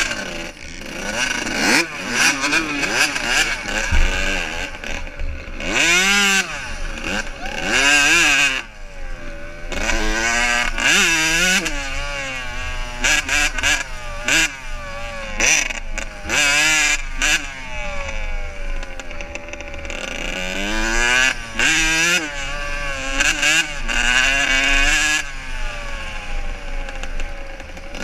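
Motocross motorcycle engines racing, revving up and dropping off again and again as the bikes accelerate and shift gears, with several engines sometimes overlapping.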